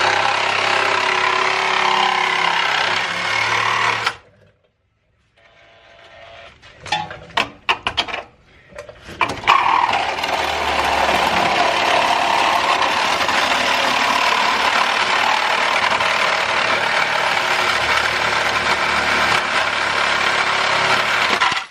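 Power saw cutting through the car body's sheet metal to clear access to the rear swing-arm bolt. It stops about four seconds in, a few metallic clanks follow, then the cutting starts again at about nine and a half seconds and runs until it stops suddenly.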